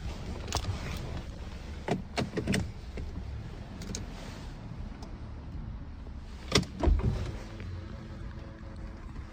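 Porsche 981 Boxster's 3.4-litre flat-six running at low engine speed with a steady low exhaust rumble. It is broken by several sharp knocks, three close together about two seconds in and two more about two-thirds of the way through.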